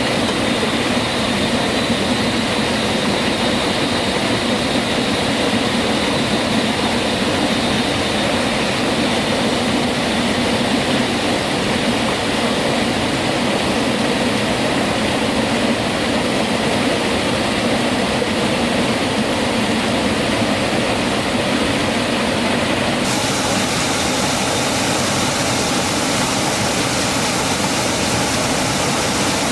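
Steady rushing of a mountain stream or waterfall, an even roar of water with no breaks. About two-thirds of the way through, the hiss at the top of the sound grows suddenly brighter.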